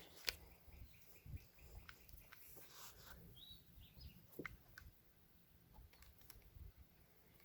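Faint outdoor quiet with a few short bird chirps about three seconds in and scattered small clicks.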